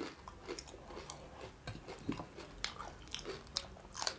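Close-miked chewing and mouth sounds of people eating by hand, with scattered small wet clicks and a few sharper ones.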